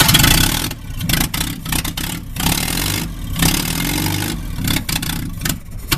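Willys F-head Hurricane engine running rough with its headers open to the air, just after its first start in years: loud and uneven, sputtering with repeated brief dips and catches, and rising in pitch briefly midway as it is revved.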